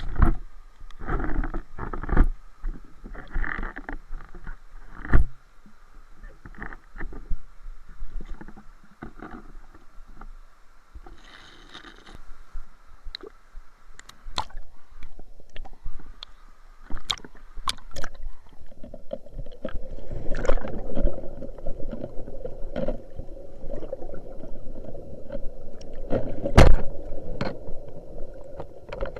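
Water splashing and sloshing with many irregular knocks and clicks. A steadier rushing water noise sets in about two-thirds of the way through.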